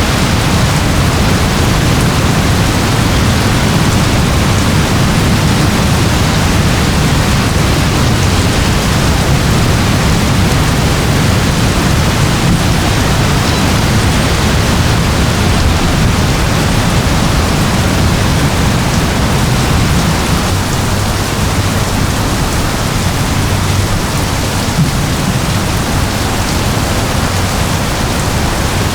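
Steady rainfall, a dense even hiss of drops with a heavy low rumble beneath it, easing very slightly about two-thirds of the way through.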